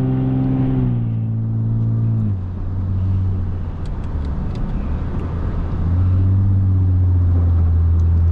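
Lexus IS250's V6 engine running on the move. Its note holds steady, then drops in pitch over about a second and a half as the revs fall. It settles into a lower drone that grows louder and steadier near the end.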